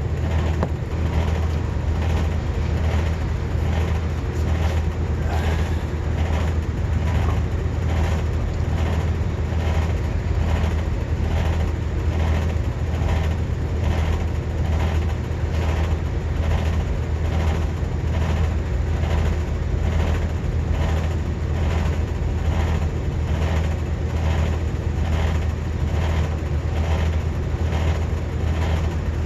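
Rooftop condensing unit of a walk-in freezer running steadily, its newly replaced compressor and condenser fan giving a strong low hum with a regular pulse about twice a second.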